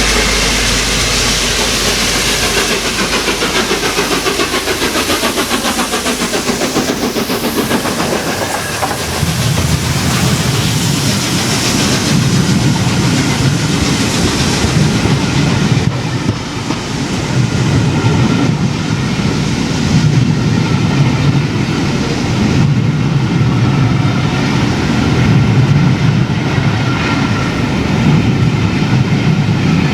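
A train running past on the rails, wheels clicking over the rail joints with a hiss, its sound falling in pitch over the first several seconds and then settling into a low, pulsing rumble.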